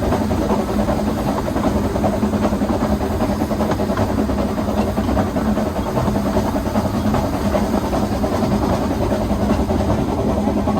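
Hunslet narrow-gauge quarry steam locomotive with a steady hiss of steam over a continuous rumble.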